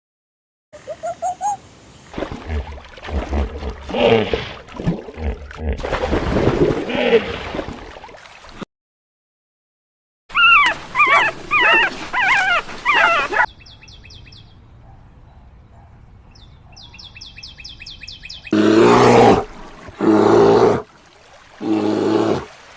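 A string of different animal calls cut one after another: pitched, dog-like whimpering and yipping calls, then a short silence, high warbling calls, a faint fast ticking or chirring, and loud repeated calls near the end.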